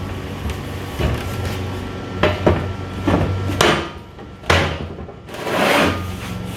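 A heavy metal plate being set down and worked into place in its brackets: a series of sharp metal knocks and clunks, about five of them, followed by a longer scraping slide near the end.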